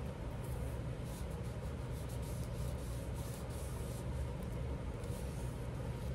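Steady low background hum, with faint, brief rustles and light taps of paper pieces being handled and arranged.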